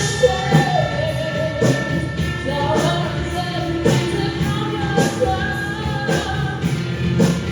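Live band playing a song with a sung vocal over the instruments, drum hits landing about once a second.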